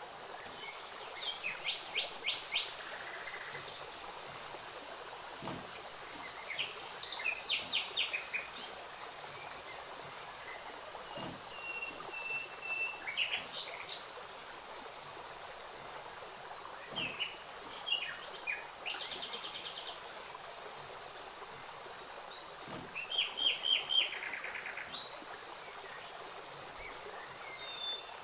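A small bird chirping in short, quick runs of high notes every few seconds, over a steady hiss.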